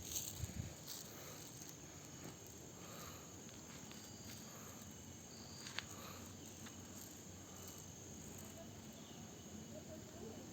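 Faint, steady high-pitched insect chirring over a low outdoor hiss, with a few soft knocks in the first second and a single sharp click about halfway through.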